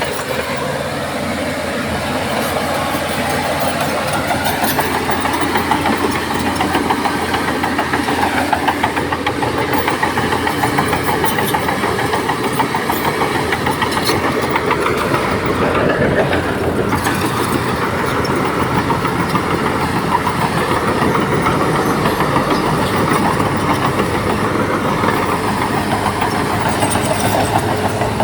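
Crawler bulldozer's diesel engine running steadily, with the clank and rattle of steel tracks.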